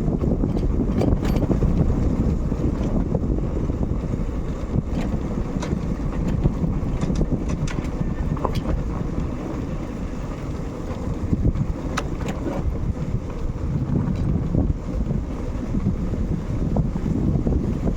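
Wind buffeting the microphone of a moving motorcycle, a steady low rush with the bike's engine and road noise mixed in, and a few faint clicks.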